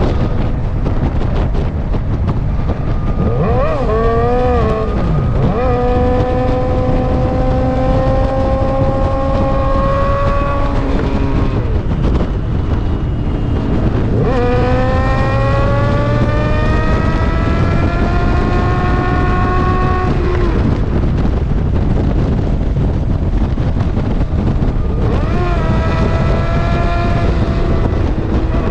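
Suzuki GSX-R sportbike's inline-four engine pulling hard in three long runs, its pitch climbing steadily each time and falling away between them, over a heavy rush of wind and road noise.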